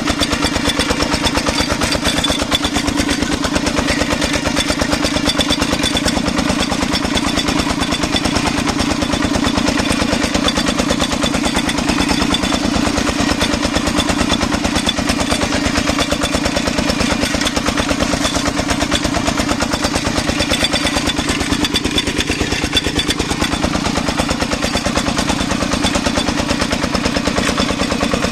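Công nông farm truck's single-cylinder diesel engine running steadily, with a rapid, even clatter of firing strokes.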